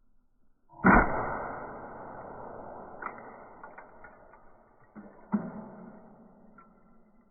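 A boot stomping down on a plastic toy fire truck: a hard impact about a second in, followed by a long fading noise and a few small cracks, then a second stomp about five seconds in with another fading tail.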